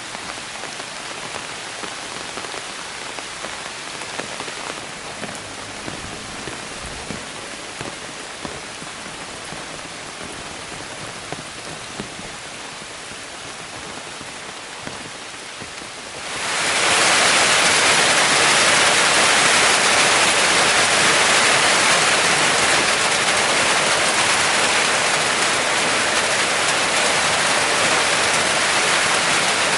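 Heavy tropical rain falling steadily, with scattered drips ticking close by. A little past halfway it gets abruptly much louder and then holds there.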